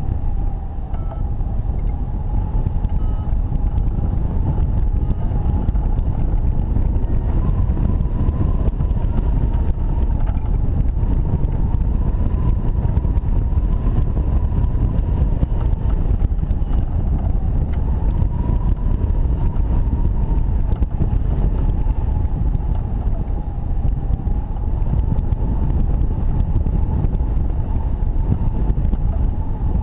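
Airflow rushing over a hang glider's microphone in flight in strong wind, a heavy steady rumble. A steady whistle-like tone rides on top and drifts slightly up and down in pitch.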